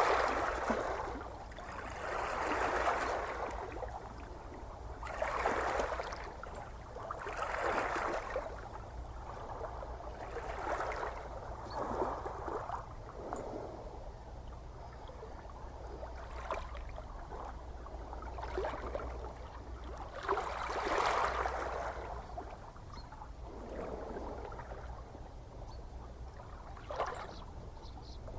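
Small ocean waves lapping and sloshing in an irregular rhythm, a soft wash every two to three seconds, over a steady low rumble.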